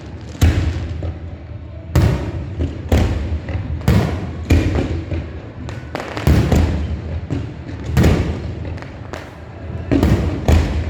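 Fireworks display: about a dozen aerial shell bursts going off in an irregular series, each boom followed by a short echoing decay.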